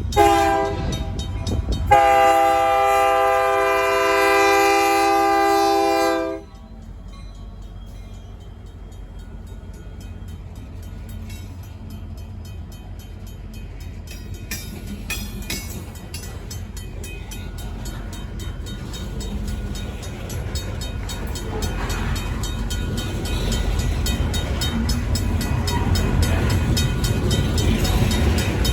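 Union Pacific SD70M diesel locomotive's horn: the end of one blast, then one long blast that cuts off about six seconds in. A RACO mechanical crossing bell rings steadily underneath. Afterwards the low rumble of the train grows louder as it comes up to and over the crossing.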